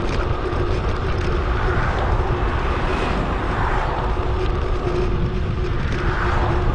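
Wind rushing over an action camera's microphone on a moving bicycle: a steady, dense rumble with a thin constant tone underneath and soft swells of hiss about halfway through and near the end.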